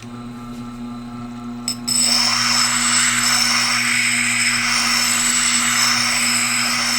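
Tormek wet grinder's motor starting and running with a steady hum. About two seconds in, the coarse side of a stone grader is pressed against the turning grinding wheel, adding a steady rasping scrape as the stone is graded coarse.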